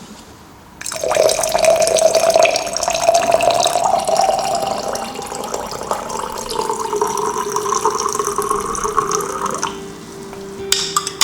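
Water running into a container, its pitch rising steadily as the container fills, then stopping near the end.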